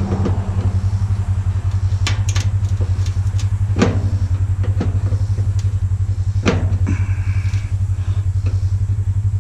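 Steady drone of a small engine running without a break, with a few sharp clicks and clinks of metal parts being handled over it.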